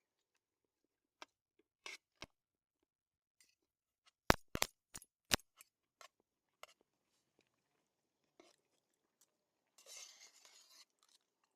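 Eating sounds at a meal: a scatter of sharp clicks and crunches, with four loud clicks in quick succession a little before the middle, and a short rustle near the end.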